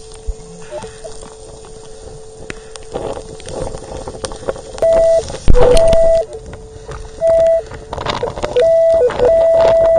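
Metal detector sounding off: a faint steady tone at first, then from about five seconds in a run of loud beeps that start and stop again and again, with short lower tones between, as the coil passes over a buried metal target. Surf and wind noise run beneath.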